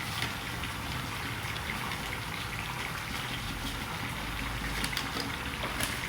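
Chicken pieces frying in hot refined oil in a pan, a steady sizzle with a few faint pops.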